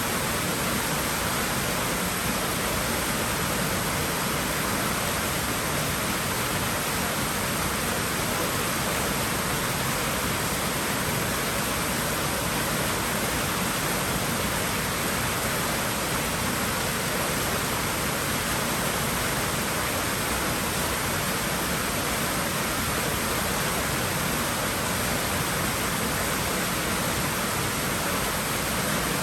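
Water rushing steadily in a swimming pool, an even hiss that does not change.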